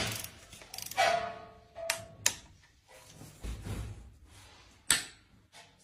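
Irregular clicks and knocks of hard objects being handled, one followed by a short metallic ring, like tools or engine parts being picked up and set down.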